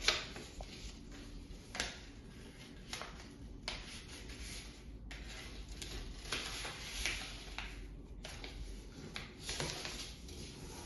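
Construction paper rustling and crinkling in short, irregular bursts as a sheet is folded in half and its crease pressed down.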